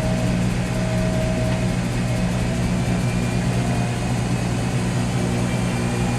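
Whirlpool Duet Sport front-load washer in its drain-and-spin stage, draining while the drum turns slowly: a steady mechanical hum from the drain pump and drum motor.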